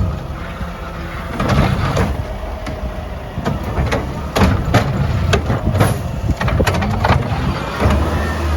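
Mack LR garbage truck's engine running, with a series of sharp metallic knocks and bangs, most of them in the middle of the stretch.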